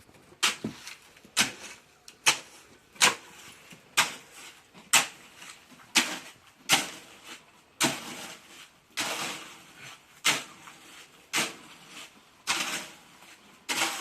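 Concrete being mixed by hand: a metal tool scraping and chopping through a mix of cement, sand and gravel, about one stroke a second, a few strokes drawn out into longer scrapes.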